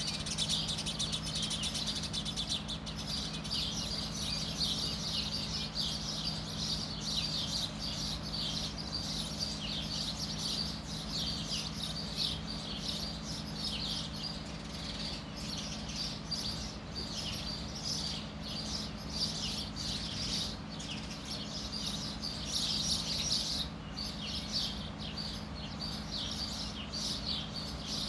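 Many small birds chirping busily, short high chirps overlapping without pause, over a steady low hum.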